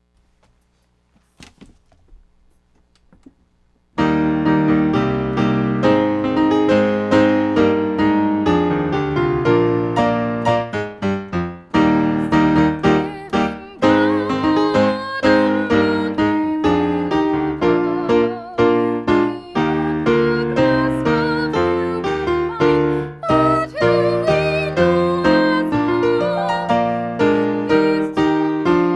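Piano playing a busy, flowing passage of quick notes, starting about four seconds in after a few faint clicks.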